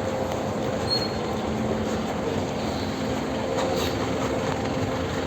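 Busy street traffic: a steady hum of vehicle engines and tyres, with a brief high squeak about a second in.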